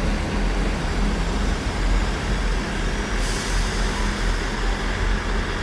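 Class 159 diesel multiple unit standing with its diesel engines idling in a steady low hum. About three seconds in, a hiss of released air starts.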